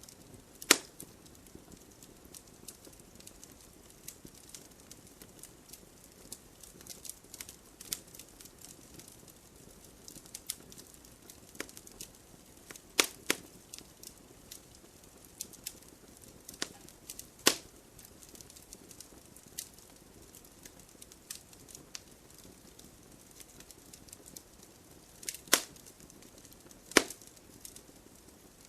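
Wood fire crackling in a fireplace: a steady run of small crackles, with a handful of sharp, louder pops from the logs.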